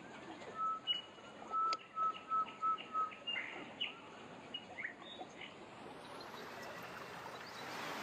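A bird calling a quick run of about six short notes on one steady pitch, a little over a second in, with a few other brief bird chirps around it over faint outdoor background.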